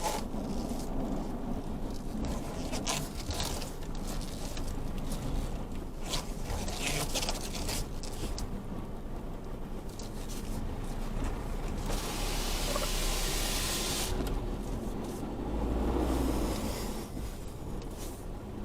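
Isuzu D-Max V-Cross diesel pickup crawling over rough off-road ground, heard from inside the cab: a low engine rumble with scattered knocks, scrapes and creaks. A burst of hiss comes about twelve seconds in and lasts about two seconds, and the rumble swells shortly after.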